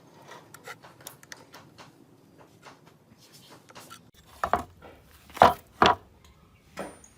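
Metal engine parts and hand tools being handled on a workbench: light clicking and tapping, then several sharper metal knocks and clacks from about halfway in.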